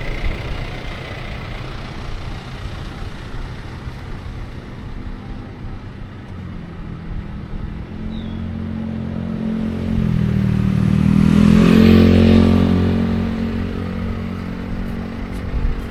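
A motor vehicle's engine passing close by over a steady low rumble of traffic or road noise, growing louder through the second half, loudest about three-quarters of the way through, then fading away.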